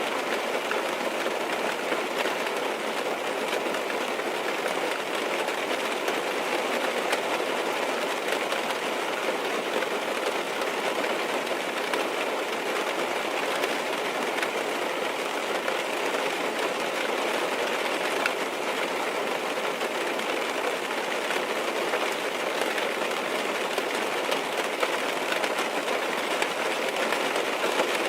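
Steady rain tapping on a car's roof and windows, heard from inside the car: a dense, even mass of small drop ticks with no let-up.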